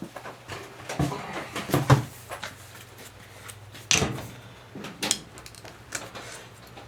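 A few sharp knocks and clunks of objects being handled and set down, the loudest about four seconds in, over a faint steady hum.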